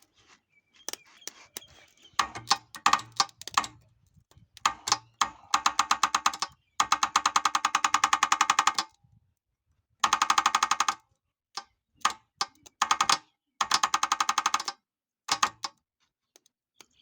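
Ratchet wrench clicking rapidly in runs of one to two seconds with short pauses, as bolts are worked while mounting a gearbox to an engine.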